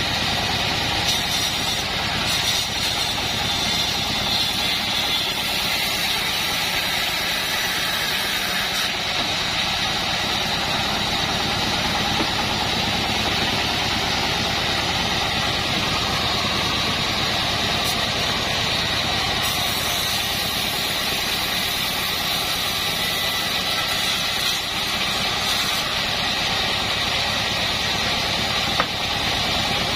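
Assembled band sawmill running steadily, its motor drone carrying a constant high whine, while it saws wood beams.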